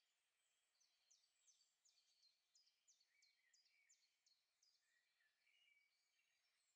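Very faint birdsong: a run of quick descending chirps, about three a second, for a few seconds, among softer scattered bird notes.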